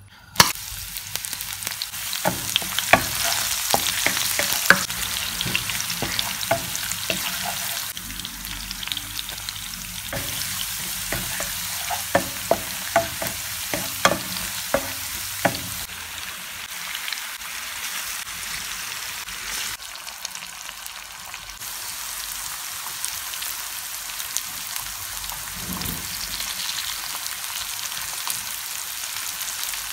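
Sliced onion hitting hot olive oil in a nonstick frying pan starts a loud, sudden sizzle. For about the next fifteen seconds a spatula clicks and scrapes against the pan as the onion is stirred. After that comes a steadier sizzle of floured chicken strips frying in the oil.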